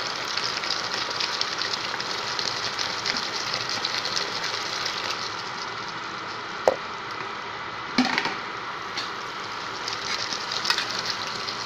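Chicken pieces sizzling in oil and spiced masala in a steel pot as they are fried down (the kosha stage of a chicken roast), with a metal spoon clinking against the pot twice about two thirds of the way through.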